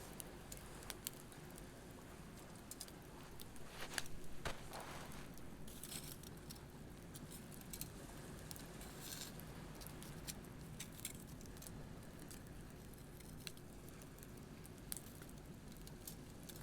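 Wood campfire crackling, with scattered sharp pops and a louder run of them about four seconds in, over a faint steady wash of waves.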